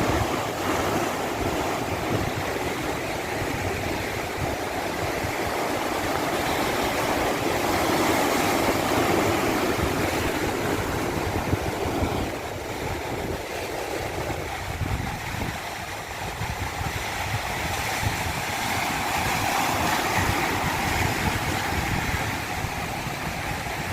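Continuous rush of water, a steady hiss that slowly swells and eases, with a low, uneven rumble underneath.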